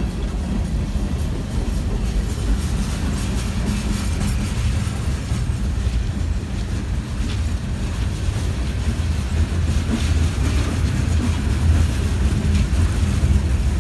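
CSX freight train rolling along the track: a steady low rumble with occasional faint clicks.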